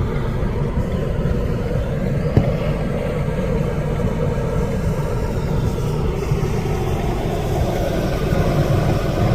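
Steady low rumble of a car driving, engine and tyre noise, with one sharp click about two and a half seconds in.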